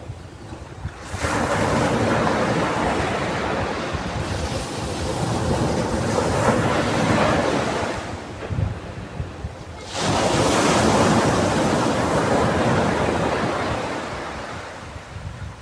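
Ocean waves breaking on a sandy beach: two waves crash, about a second in and about ten seconds in, each dying away slowly as the wash runs up the sand, with some wind on the microphone.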